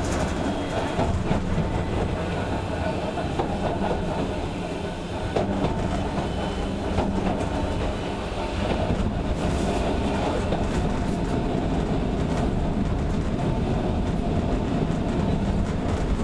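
Sangi Railway Hokusei Line 270-series narrow-gauge (762 mm) electric train running, its wheels and motors rumbling steadily, with clickety-clack over the rail joints and scattered clicks.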